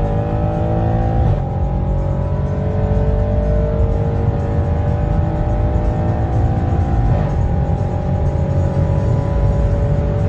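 Audi RS6 engine under hard acceleration, heard from inside the cabin, its pitch climbing steadily. Two quick upshifts break the climb, about a second in and about seven seconds in, over heavy road and wind rumble.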